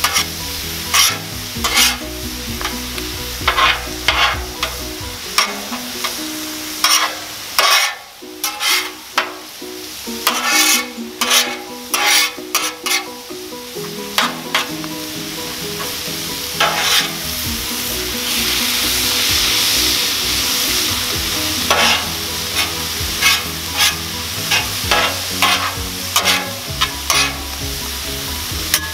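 Metal spatulas scraping and clacking irregularly on the steel cooktop of a Blackstone flat-top griddle, over the steady sizzle of eggs and vegetables frying. The sizzle swells for a few seconds a little past the middle.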